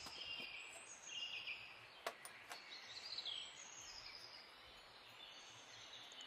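Small birds chirping faintly in the background, short repeated calls with some falling notes, and a few faint clicks about two seconds in.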